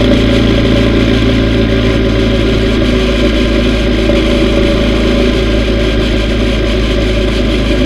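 Yamaha V Star 950's air-cooled V-twin engine running at a steady cruise, with steady wind and road noise.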